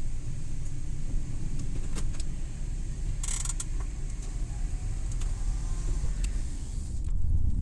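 Suzuki Every Wagon's small 660 cc three-cylinder engine and road noise running as a steady low rumble inside the cabin. Scattered short clicks and rattles are heard, with a brief hiss about three seconds in. The rumble swells near the end.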